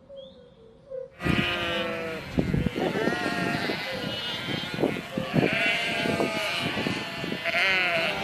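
Bleating livestock: loud, wavering calls with knocks and clicks among them, starting abruptly about a second in after a bird chirps quietly a few times.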